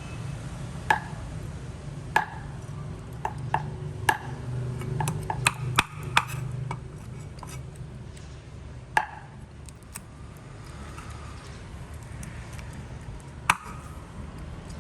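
Light clinks of hard objects against dishes or glass: about a dozen irregular, ringing strikes, busiest in the first half, then two more spaced out near the end, over a steady low hum.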